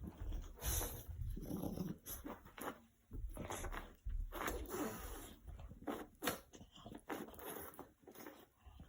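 Puppy making a series of short, noisy, unpitched nasal breaths and snorts, coming irregularly every second or so, during a long sneezing fit.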